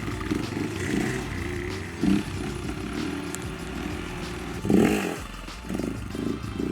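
Dirt bike engine running, swelling louder briefly twice.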